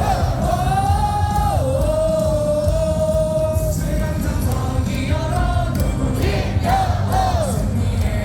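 A large stadium crowd singing a cheering song in unison over loud amplified music, with a long held note near the middle.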